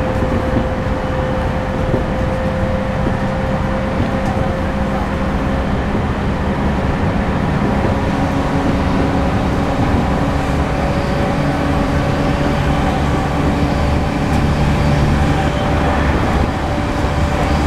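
Running sound inside a moving E231 series suburban train car with a Hitachi IGBT-VVVF inverter: steady wheel-on-rail rumble under a thin traction-motor whine that rises slowly in pitch as the train gathers speed.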